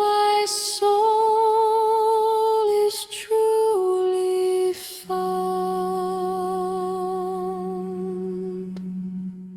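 Wordless humming of a devotional song: a voice holds long notes with vibrato, moving between a few pitches. About five seconds in it settles on one long final note over a low steady tone, which fades out near the end.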